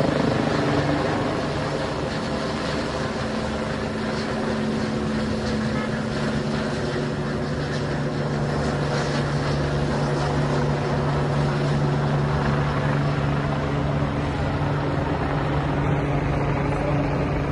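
Helicopter engine and rotor noise, a steady drone with a low hum.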